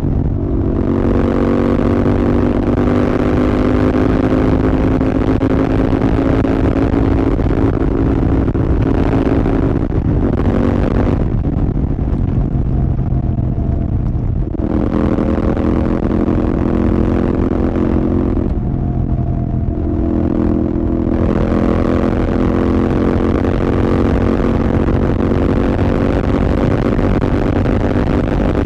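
Royal Enfield Continental GT 650's parallel-twin engine with an aftermarket Red Rooster exhaust, pulling under load at riding speed. Its pitch climbs slowly and steps down a few times as gears change.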